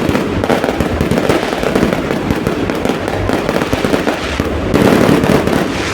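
Fireworks going off in dense, rapid succession: a continuous crackle of many overlapping bangs, loudest about five seconds in.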